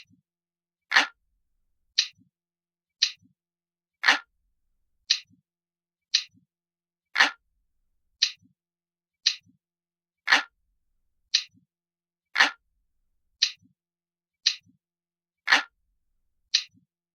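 Ticking clock sound effect, one tick a second. Every third tick is louder and deeper than the two between, and each is followed by a faint second click.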